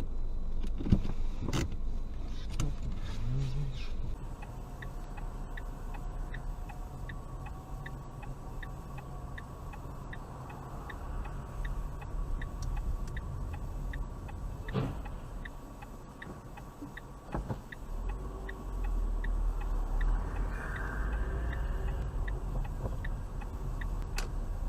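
Car driving with a steady low engine and road rumble. From a few seconds in, a regular ticking runs at about two to three ticks a second.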